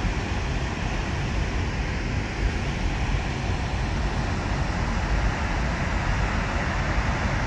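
Steady roar of water rushing out from the dam's outflow, a constant even rush with no breaks.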